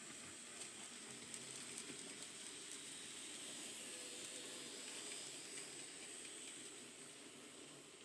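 N gauge model train running on the layout: a faint, steady hiss-like whirr with light ticks during the first few seconds, dropping slightly in level near the end.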